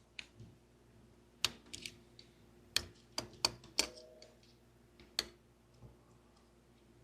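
A run of sharp, irregular plastic clicks and taps, about eight in all and mostly bunched in the middle, as wiring-harness clips and connectors are handled and unclipped.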